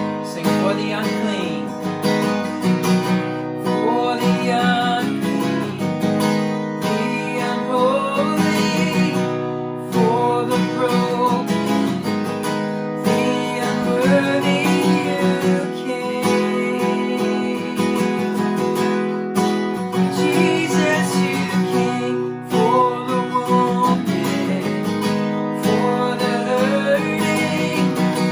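Worship band music: strummed acoustic guitar chords in a steady rhythm, with a melody line gliding above them.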